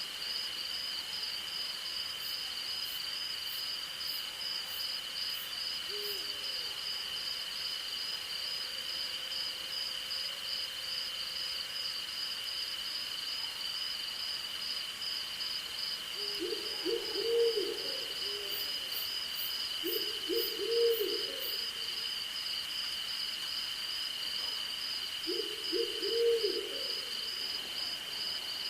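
Night chorus of crickets and other insects: a steady high trill with a faster pulsing trill above it. An owl hoots over it in three short groups of calls, about two-thirds of the way in, again shortly after, and near the end.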